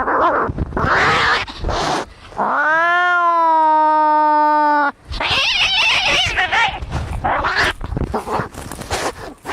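Cats fighting: harsh hissing screeches, then one long yowl that rises and holds for about two and a half seconds in the middle, followed by more rapid harsh spitting cries.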